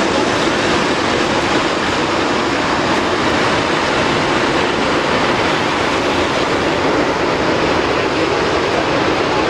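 Jet engines of a large aircraft, a steady, loud roar with no rise or fall.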